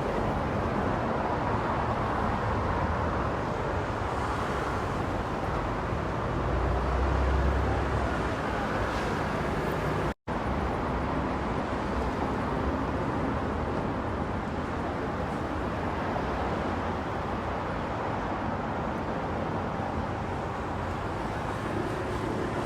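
Car driving: steady road and tyre noise with a low engine hum, swelling into a louder low rumble for a couple of seconds about six seconds in. The sound drops out completely for a moment about ten seconds in.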